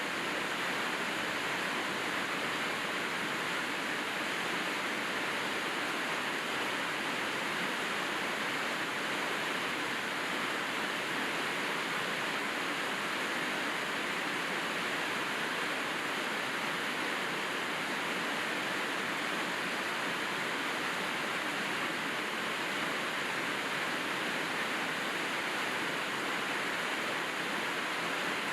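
Steady rain falling, an even hiss with no separate drops or changes.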